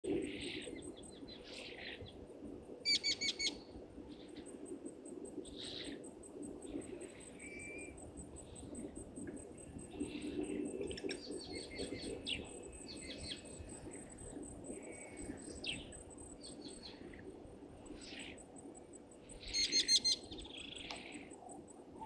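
Birds calling in bush: scattered short calls and whistles, with two loud runs of a few harsh, quickly repeated notes about three seconds in and near the end, over a rapid, high insect trill.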